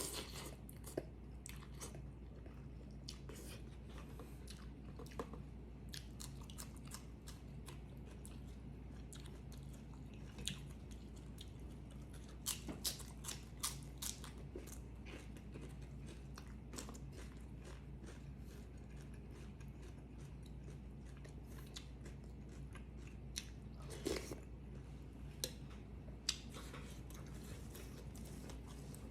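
A person eating close to the microphone: chewing and biting food, with scattered short crunches and mouth clicks, over a steady low hum.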